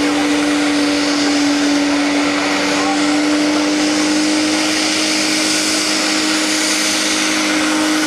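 Pulling machine's engine running flat out at a steady high pitch under load, with a loud hiss over it.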